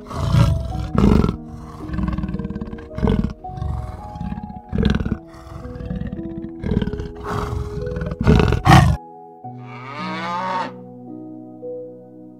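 A big cat growls and snarls again and again, a rough burst about once a second, for about nine seconds, over soft background music. After it stops suddenly, a cow moos once in one rising call.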